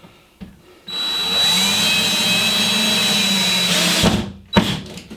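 Power drill driving a screw through drywall into a wooden backing strip: the motor whines steadily for about three seconds, stops, then gives one short second burst.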